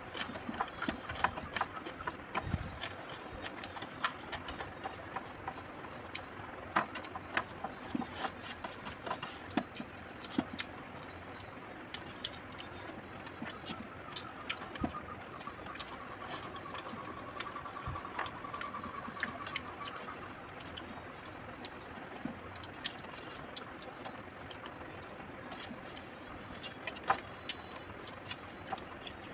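Close-up eating sounds: many small wet clicks and smacks of chewing, with fingers gathering rice on a steel plate.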